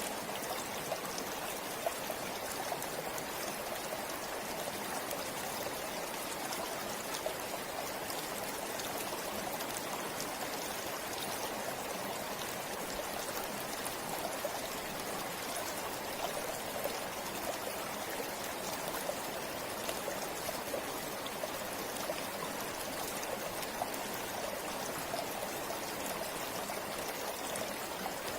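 A shallow river flowing over stones, with a steady rush of water and many small splashes and trickles on top.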